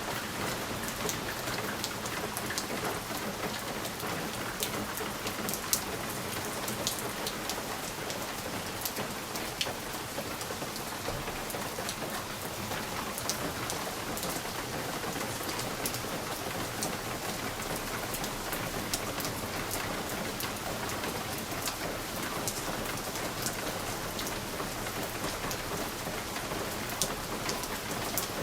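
Steady rain on a window pane: an even hiss of rainfall with many individual drops ticking against the glass.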